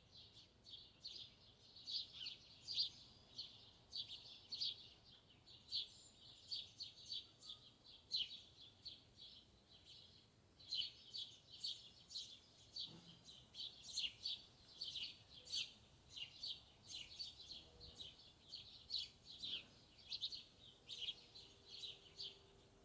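A small bird chirping, a rapid run of short high chirps at about three a second. The chirps pause briefly about ten seconds in, then carry on and stop near the end.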